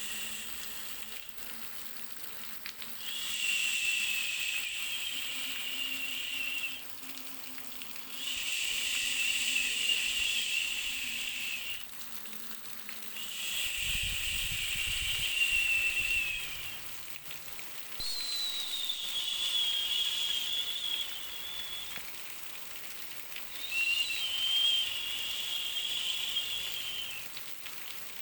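Baby white-noise track: a hiss carrying a whistle-like tone, coming in repeated swells of about three to four seconds with short dips between them. The pitch sags slightly within each swell.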